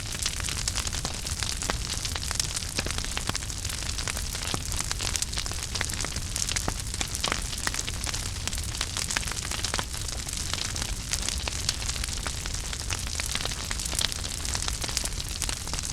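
Wood fire burning in a fireplace: dense, irregular crackles and pops over a steady hiss and a low rumble of the flames.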